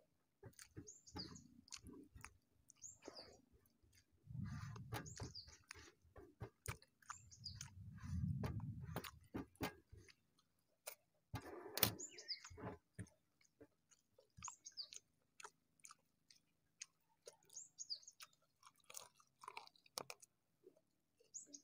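Quiet chewing and mouth clicks of a man eating rice and curry by hand, with fingers working the food on a steel plate and two brief muffled low rumbles around four and eight seconds in. A bird gives a short high chirp every couple of seconds.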